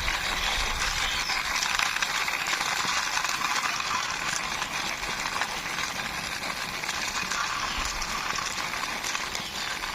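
Plastic toy vehicle pushed by hand, its wheels rolling and scraping over a surface: a steady gritty hiss.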